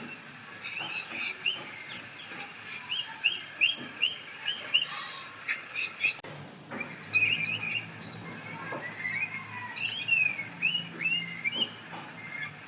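Parrots chirping and calling: runs of short, sharp, rising chirps, about three a second, mixed with more varied calls.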